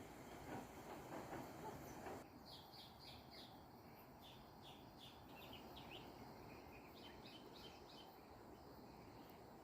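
A bird chirping faintly: a run of short, quick chirps starting about two seconds in, over a low steady hiss.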